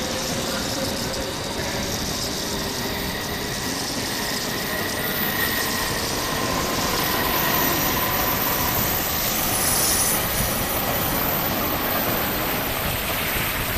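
N700S Shinkansen train pulling out of the station past the platform, a steady rush of wheels on rail and moving air with faint high whining tones, growing a little louder as it gathers speed.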